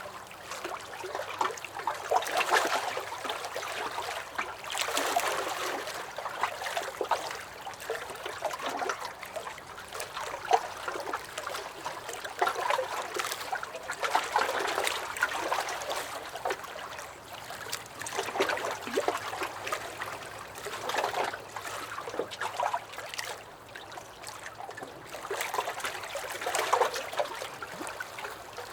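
Small lake waves lapping and splashing against a dock, in irregular swells every second or two.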